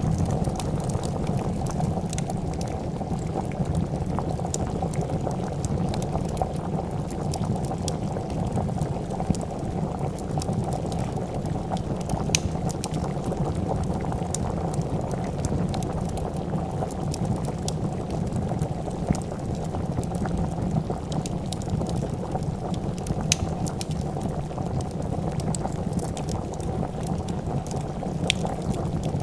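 Pot of soup boiling, a steady dense bubbling, with sparse small crackles and pops from a wood fire.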